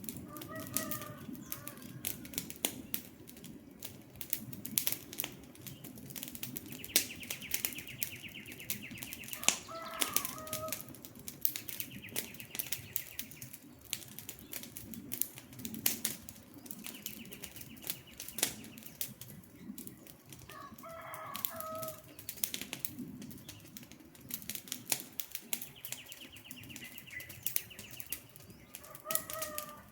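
Wood campfire crackling steadily with frequent sharp pops over a low rush of flame. A bird gives short calls four times, about every ten seconds, and a buzzy high trill repeats several times in between.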